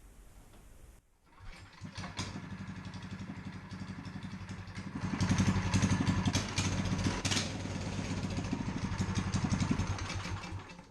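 Small go-kart engine starting about a second in and running with a fast, even exhaust pulse, getting louder from about five seconds in as it is revved, then cut off just before the end.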